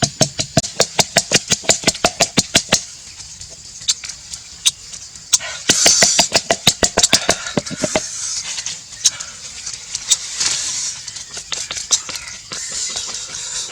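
Rapid, even knocks of a knife chopping on a cutting board, about six a second, stopping about three seconds in. After that come scattered knocks with short bursts of hiss.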